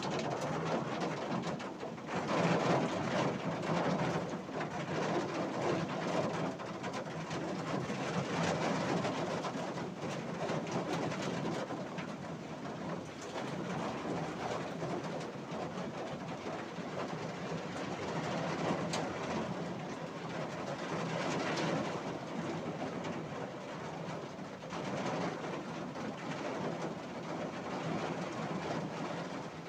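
Heavy rain falling steadily: a dense hiss full of small sharp drop hits, swelling and easing in strength.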